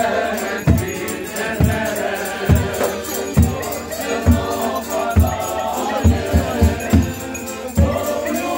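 Live Ukrainian folk music of a Malanka procession: group singing and sustained melody over a drum beaten about once a second, with a quick run of beats a little past the middle.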